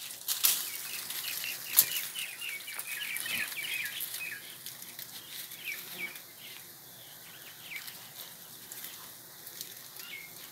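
A bird chirping in a quick series of short, high calls that thins out to single chirps after about four seconds, with a couple of sharp knocks in the first two seconds.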